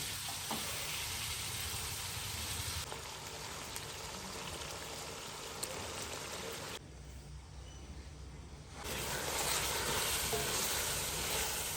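Food frying in hot oil: a steady sizzling hiss that changes level abruptly a few times and is quieter for about two seconds past the middle.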